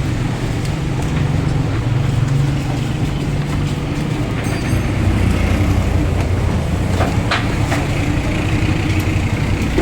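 Steady low rumble of a running motor vehicle engine, with a sharp knock about seven seconds in.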